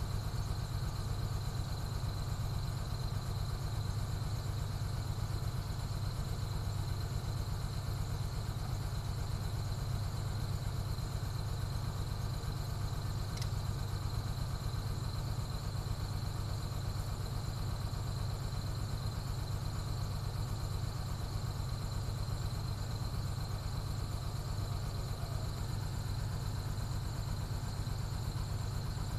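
Jet engines running steadily: a constant low rumble with a thin high whine on top, not rising or falling.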